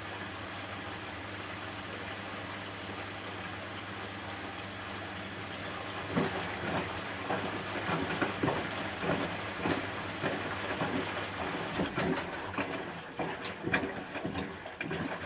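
Bosch front-loading washing machine in its wash cycle: a steady hum with water hissing in, then irregular splashing and sloshing of water from about six seconds in. The steady hum stops about twelve seconds in, leaving sharper splashes and clicks.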